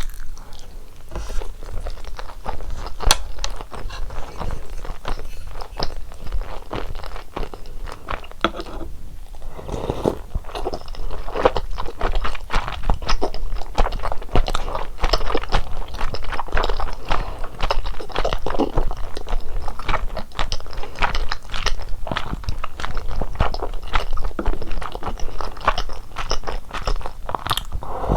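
Close-miked chewing and biting of fish cakes from a hot fish cake soup (eomuk-tang): a dense run of small mouth clicks, with a short lull about nine seconds in, after which the chewing gets louder.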